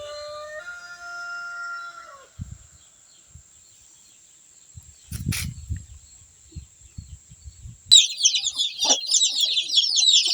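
A rooster crowing once for about two seconds, its call stepping up in pitch and dropping off at the end. A few dull knocks follow, and near the end a dense high chirping starts abruptly.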